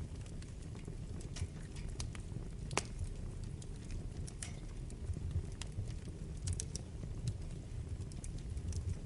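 Wood fire burning in a fireplace: a low steady rumble of flames with scattered sharp crackles and pops, one louder pop about three seconds in.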